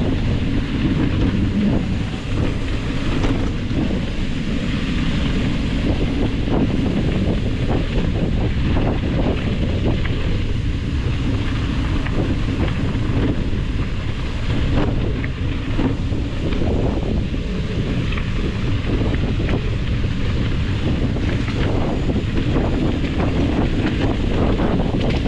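Wind buffeting the microphone outdoors: a steady loud rumble with frequent small crackles and knocks.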